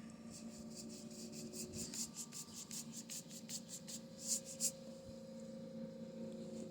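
Paintbrush scrubbing back and forth across a canvas in quick, even strokes, about five a second. The strokes stop after about four and a half seconds, and the last two are the loudest. A faint steady hum runs underneath.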